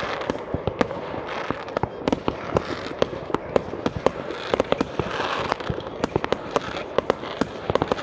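Many aerial fireworks going off together: a dense, irregular run of sharp bangs and cracks over a steady crackling hiss.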